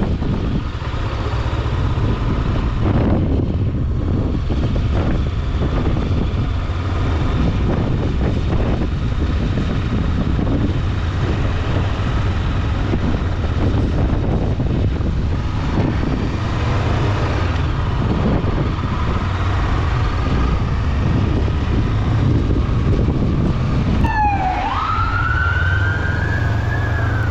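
Strong wind buffeting the microphone of a moving motorcycle: a steady, heavy rumble with gusty flutter. About three-quarters of the way in, a whistling tone dips sharply, then rises and holds to the end.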